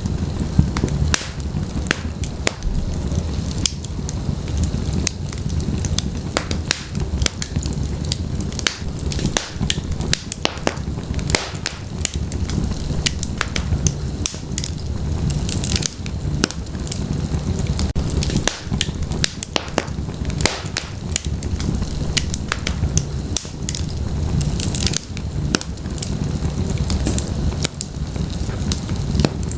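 Wood fire burning in a fireplace: a steady low rumble of flames under dense, irregular crackles and pops from the logs.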